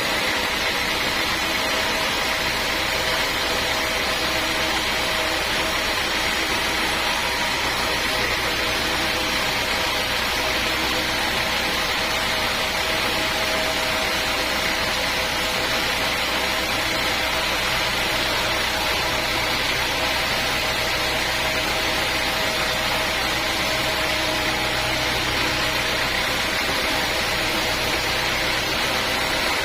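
Sawmill machinery running steadily: a constant mechanical noise with a few steady whining tones held throughout, with no change in load.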